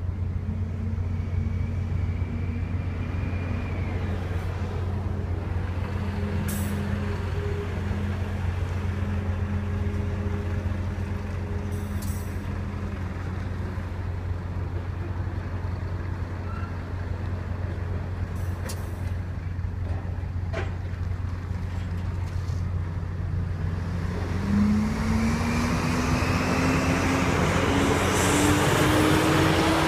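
Steady low drone of engines around a ferry berth. From about 24 s a road vehicle's engine speeds up and grows louder, then fades away right at the end.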